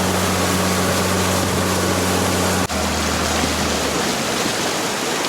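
Rushing river water with a steady low motor hum beneath it; the hum drops in pitch about two and a half seconds in and fades out a little later.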